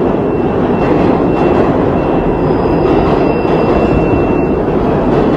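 A train passing close by: a steady loud rumble of the cars rolling on the rails, with a faint thin high tone over it.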